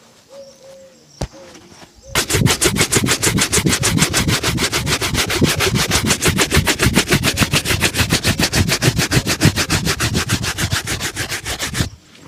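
A shoe being buffed with rapid, even back-and-forth rubbing strokes during a shoe shine. The strokes start about two seconds in and stop abruptly near the end.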